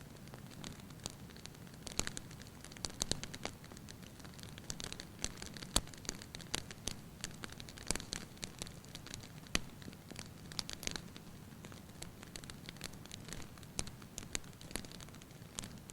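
Wood fire burning in a fireplace: irregular sharp crackles and pops, several a second, over a low steady noise of the burning.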